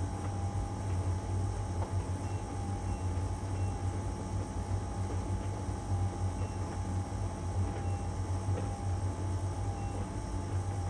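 LG heat pump tumble dryer running mid-cycle: a steady low hum with a faint steady whine above it and occasional light ticks as the load tumbles in the drum.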